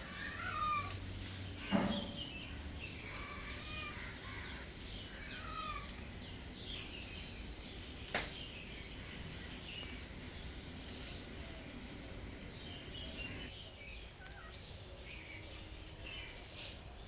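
Many small birds chirping in quick, short calls, over a steady background hum, with two sharp knocks, one about two seconds in and one about eight seconds in.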